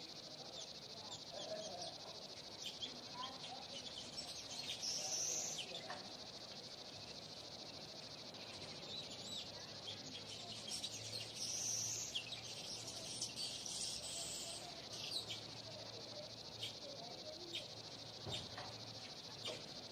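Steady high-pitched insect chorus, with bird chirps rising over it about five seconds in and again around eleven to fourteen seconds.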